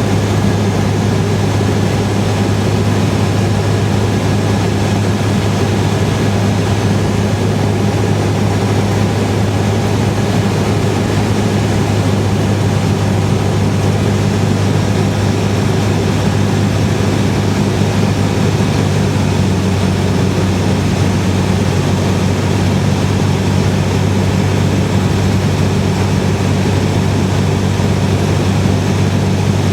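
Cessna 172R's four-cylinder Lycoming engine and propeller running steadily in flight, a constant low drone that does not change.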